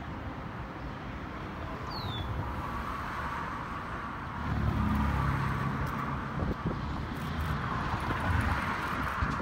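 A passing train rumbling steadily, growing louder about halfway with a low engine drone. One short, falling bird chirp is heard about two seconds in.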